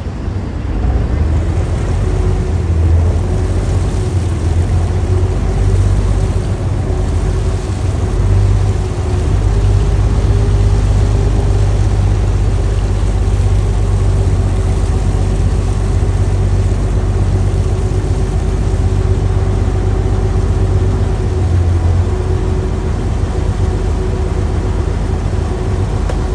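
Boat engine running steadily at a constant speed: a loud low rumble with a steady hum over it.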